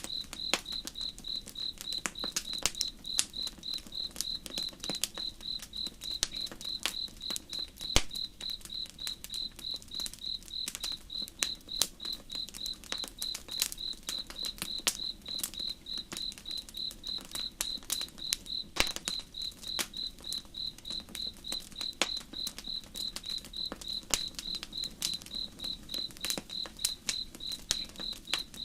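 A cricket chirping steadily at an even pace, about three chirps a second, over a campfire crackling with irregular sharp pops.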